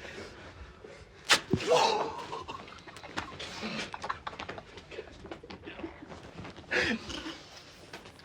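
An adhesive name tag ripped off a person's chest, a sharp tearing sound about a second in, followed at once by a pained yell. Another short outburst comes near the end, with low grunts and stifled voices between.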